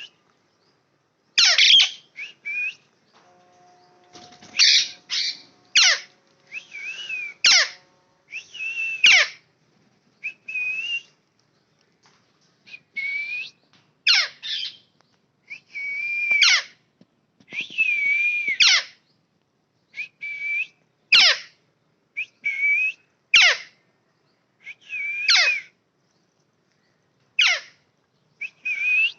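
Parrots calling: a run of short, loud whistled squawks, some sweeping sharply down in pitch and others held and wavering, repeated every second or two.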